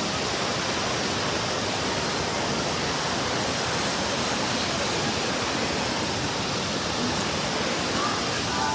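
A large waterfall, its falling water making a steady, even rush.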